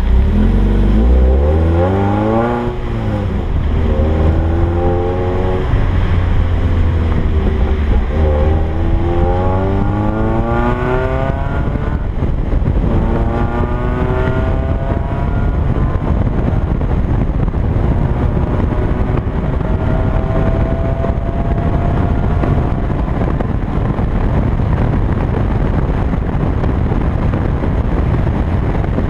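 Stock 1.8-litre 1ZZ four-cylinder of a 2000 Toyota MR2 Spyder accelerating hard, its pitch climbing through the revs and dropping back at several upshifts, then holding a steadier, slowly rising note. Wind and road rush on the outside camera grow over the engine near the end.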